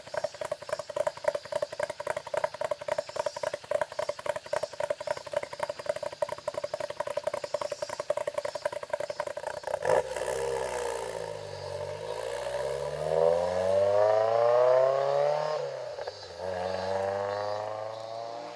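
Cicadas droning with a fast, even pulsing. About ten seconds in, a Toyota AE86's four-cylinder engine cuts in and revs up through the gears: the pitch rises, drops at a gear change, then climbs again.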